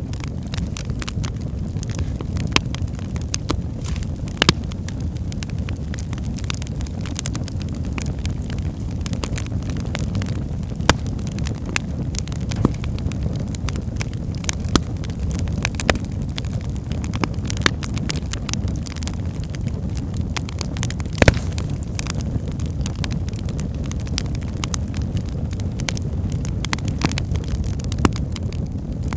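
Wood fire burning in a fireplace: a steady low rumble of the flames with frequent sharp crackles and pops from the burning logs, one louder pop a little past the middle.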